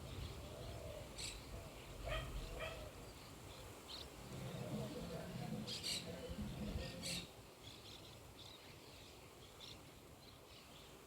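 Small birds chirping and calling faintly while the low rumble of thunder dies away. A second low rumble swells about four seconds in and fades near seven seconds.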